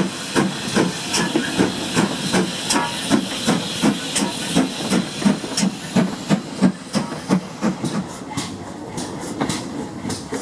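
Steam locomotive working, its exhaust chuffing in a steady rhythm of about two to three beats a second over a loud hiss of steam. The hiss drops away about two seconds before the end while the chuffs go on.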